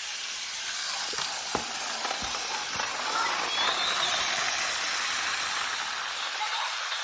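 Battery-powered TOMY toy trains running on plastic track: a steady whirring, hissing motor-and-gear noise, with a few sharp clicks in the first few seconds.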